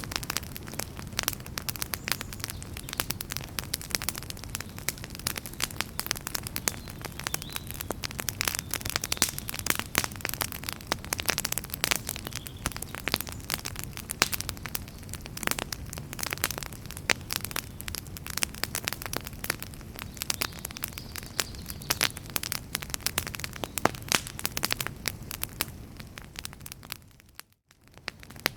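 Wood fire crackling in a fireplace: dense, irregular pops and snaps over a steady low rumble of flames. The sound cuts out for about a second near the end.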